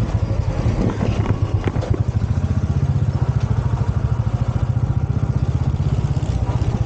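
Royal Enfield motorcycle engine running steadily while riding, an even, fast pulsing exhaust beat.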